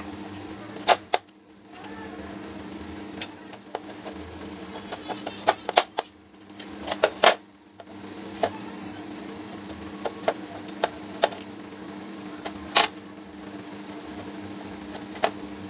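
Scattered sharp clicks and knocks of metal parts and tools being handled while a pneumatic impact wrench is worked on, over a steady low hum. The knocks come in an uneven run, thickest in the middle.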